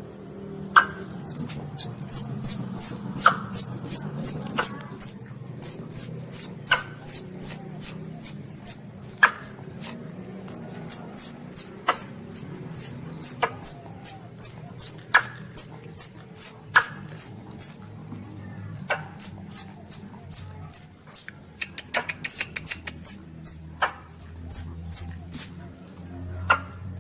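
Luwak (Asian palm civet) kitten calling: rapid, high squeaks, each sliding down in pitch, several a second in long runs with short breaks. A sharper click comes every second or two.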